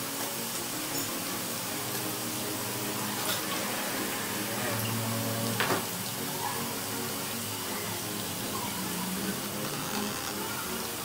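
Eggplant cubes frying in hot oil in a pan, a steady sizzling hiss, with a couple of sharp clicks about 3 and 6 seconds in.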